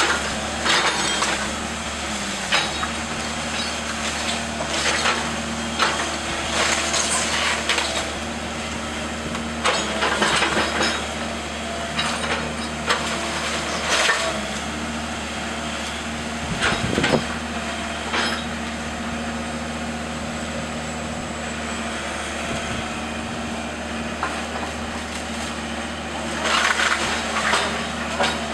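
Wooden house framing cracking, splintering and crunching in irregular bursts as it is torn apart in demolition. A heavy machine's engine runs steadily underneath.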